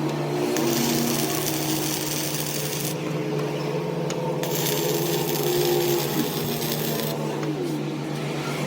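A workshop machine running with a steady hum, joined twice by a harsh high cutting or grinding noise that starts and stops, lasting a couple of seconds each time.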